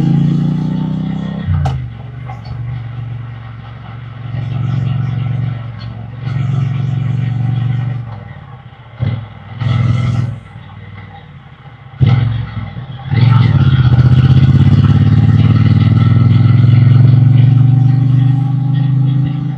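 Triumph Bonneville T120 parallel-twin engine and exhaust under way. It accelerates with rising pitch at the start, then drops to low revs with a couple of short throttle blips, with a sharp click about twelve seconds in. From about thirteen seconds in it pulls hard again with the pitch climbing.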